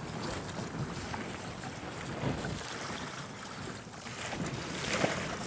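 Wind buffeting the microphone over water sloshing around a kayak, uneven and gusty, with a short louder noise near the end.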